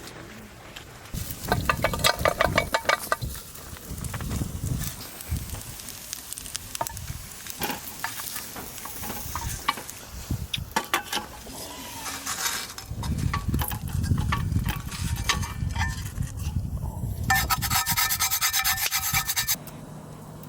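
Repeated rasping, scraping strokes in several runs, the quickest and loudest about two seconds in and again near the end.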